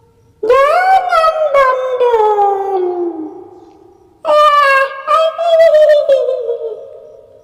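Two long, high wailing howls, each sliding downward in pitch, used as a spooky ghost-sound effect. The first runs from about half a second in to about three seconds; the second starts about four seconds in and fades out near the end.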